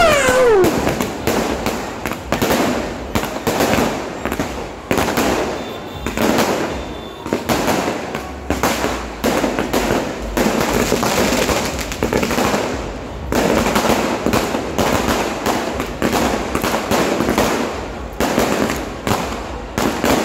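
Fireworks and firecrackers going off without a break: a dense run of bangs and crackling. A whistle falls in pitch and ends right at the start.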